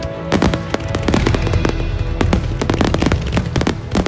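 Aerial fireworks shells bursting in rapid, irregular succession, many bangs overlapping with crackle, while music plays along.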